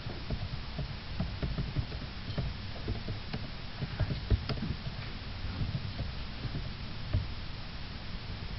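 Irregular light clicks and knocks, a few a second, over a steady low rumble.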